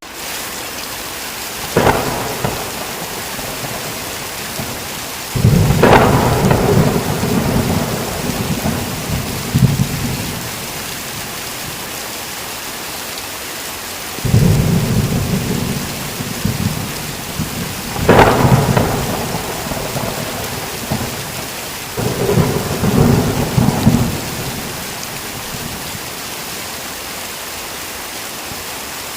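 Steady heavy rain with repeated thunder: sharp cracks about two, six and eighteen seconds in, and several long low rumbles rolling on for a few seconds each.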